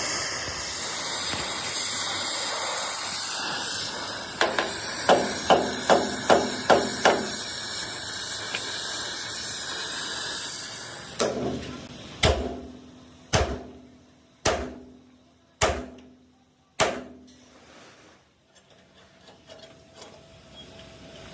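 Hammer blows on steel truck-frame metal: a quick run of about eight strikes, then about six heavier ringing blows spaced about a second apart. A steady hiss runs under the first half and stops before the single blows.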